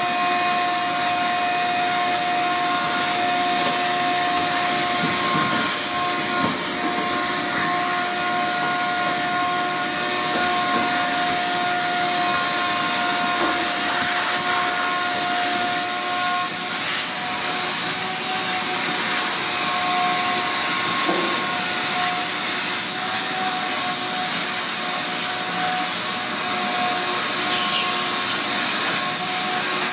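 Shop vacuum running steadily, its motor giving a constant whine over a rushing hiss of air, as it sucks lint out of a dryer cabinet.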